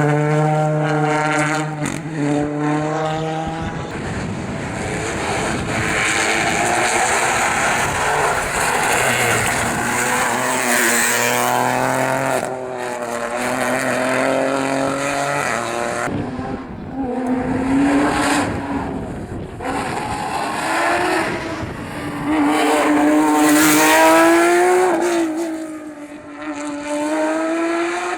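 Rally cars at full attack on a special stage, engines revving hard and the note climbing and dropping through quick gear changes as the cars pass.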